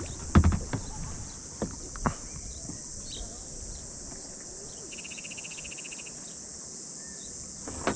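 Steady high-pitched drone of insects, with a few sharp knocks in the first two seconds and a short, fast rattle of clicks about five seconds in.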